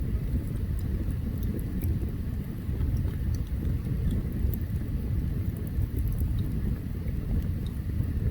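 Open campfire burning: scattered small crackles and pops over a steady low rumble, which is the loudest sound.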